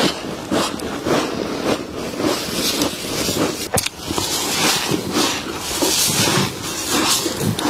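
Close-up crunching and chewing of frost, a rapid run of irregular crisp crunches with one sharp crack about halfway through.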